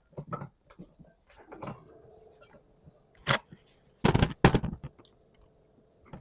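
Tools and metal parts knocking and clicking as they are handled on a workbench, with one loud knock about three seconds in and a quick run of loud knocks about a second later.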